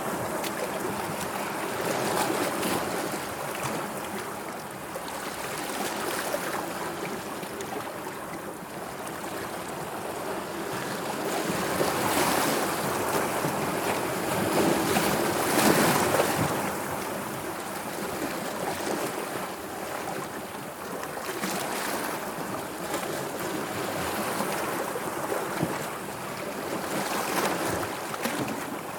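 Sea waves washing in, a continuous rush of water that swells and falls back every few seconds, with the biggest surge about halfway through.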